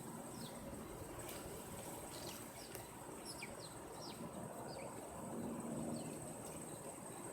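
Small birds giving short, falling chirps every so often over a steady high-pitched insect drone.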